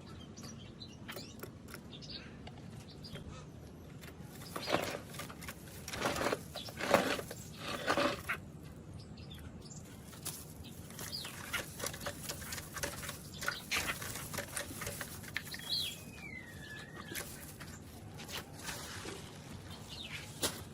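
Caged bird moving about: a few loud bursts of rustling about five to eight seconds in, scattered light clicks throughout, and one whistled call sliding down in pitch about sixteen seconds in.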